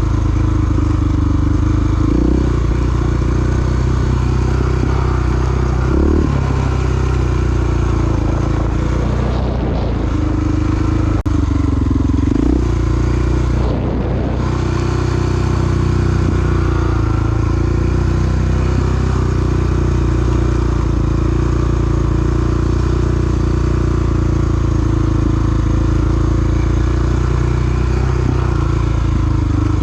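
Single-cylinder four-stroke dual-sport motorcycle engine running under way. The engine note steadies and then dips and picks up again several times, with brief breaks in the note.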